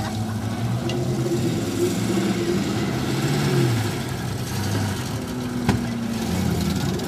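Several derby cars' engines running and revving on grass, their pitch rising and falling. One sharp bang about five and a half seconds in, as two cars collide.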